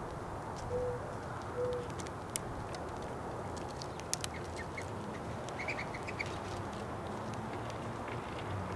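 Birds feeding outdoors: three short, soft, low calls in the first two seconds, then scattered sharp clicks and a few faint high chirps over a steady background hiss.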